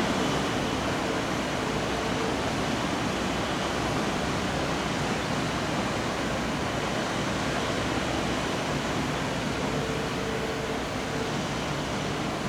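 Steady rushing noise, even throughout, with no thunderclaps or other distinct events; a faint hum comes and goes.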